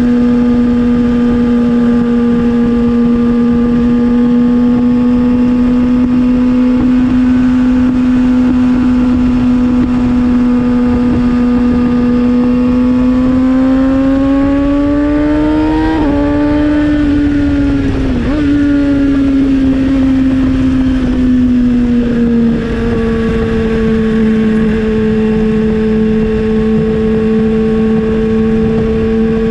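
Kawasaki ZX-6R's 636 cc inline-four running through an M4 GP19 slip-on exhaust while riding at a steady cruise. About halfway through the note climbs in pitch, dips sharply twice in quick succession, then settles back to a steady cruise.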